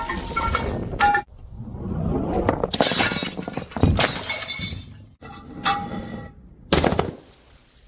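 Glass bottles shattering, one break after another, about four crashes with shards ringing and tinkling after them. The longest crash comes about three seconds in.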